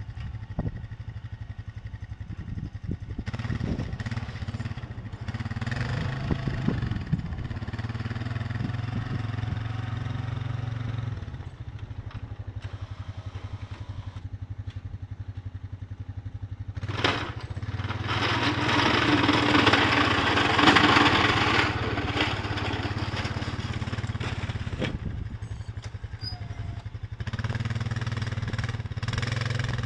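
An engine running steadily, with a louder rushing stretch in the middle that lasts a few seconds.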